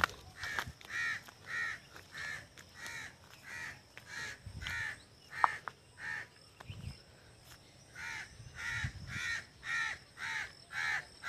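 A bird calling over and over in a steady series of short calls, about one and a half a second, pausing for a second or so after about six seconds and then starting again. A single sharp click about five and a half seconds in.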